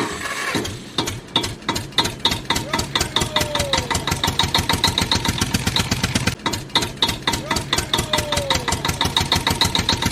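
Tractor engine starting and then running at a steady idle with an even, fast knocking chug.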